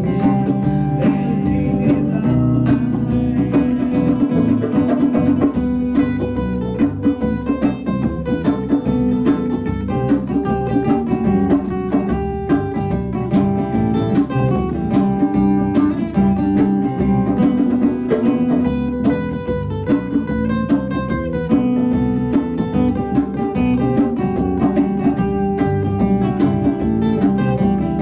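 Live band of electric or acoustic guitar, bass guitar and drums playing an instrumental passage, with steady drum hits keeping the beat and no singing.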